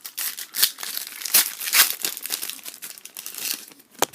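Foil trading-card pack wrapper crinkling and tearing as the pack is opened, in irregular rustles, with one sharp click near the end.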